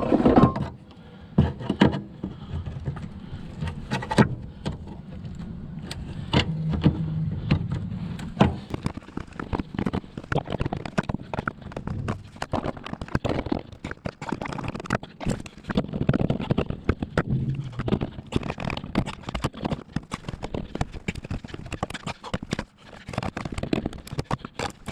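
Hand tools working the floor-pan sheet metal over the fuel pump of a 1997 Honda Odyssey: a dense, irregular run of sharp metallic clicks, snips and knocks.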